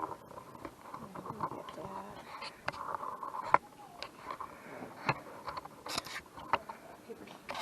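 Scattered light taps and clicks, a dozen or so at uneven intervals, over faint room noise.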